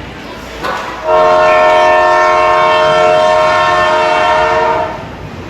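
Arena horn sounding one long, steady blast of about four seconds, made of several tones at once, starting about a second in and cutting off sharply.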